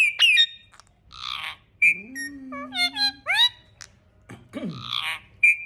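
Pet parrot giving a string of short whistles and chirps, several sweeping sharply upward in pitch, with two raspy squawk-like calls, about a second in and again near the end.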